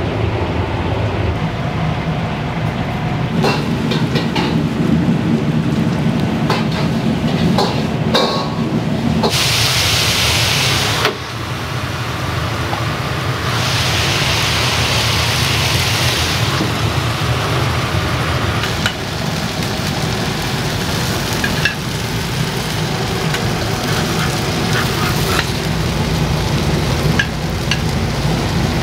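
Restaurant kitchen cooking: a steady low roar from the range, with light metal clinks of utensils against the pan, and two bursts of loud sizzling hiss, each two to three seconds long, about a third of the way in and about half way through.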